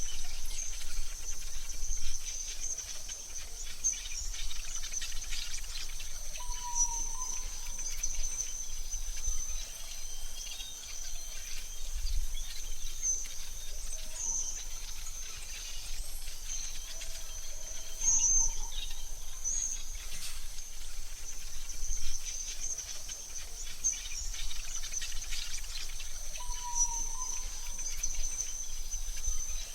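AI-generated forest ambience: a steady high insect trill throughout, with occasional short bird chirps and a faint low rumble underneath.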